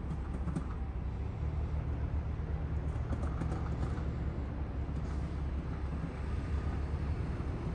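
Ottawa O-Train Confederation Line light-rail train: a steady low rumble and hum, with a few faint clicks about half a second in and around three seconds in.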